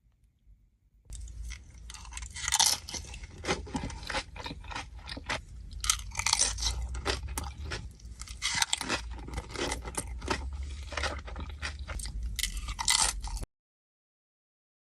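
Crunching and chewing of Doritos tortilla chips with a Chipotle bowl, in irregular crisp bites with several louder crunches. It starts about a second in and cuts off abruptly near the end.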